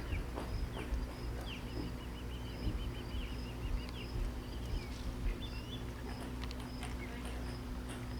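Birds calling over a steady low background: a rapid run of short, high, repeated notes about two seconds in, then a brief call later.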